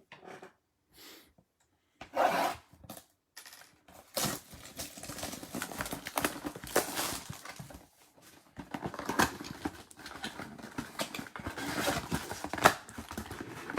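Irregular rustling and crackling of foil trading-card pack wrappers being torn open and handled, with a few sharp clicks, one near the end.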